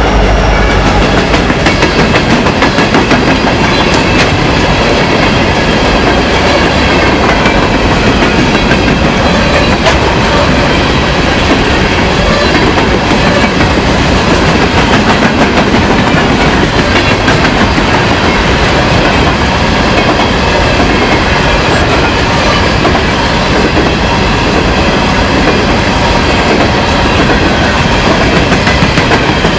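Train cars rolling past at close range, loud and steady, their wheels clattering over the rail joints.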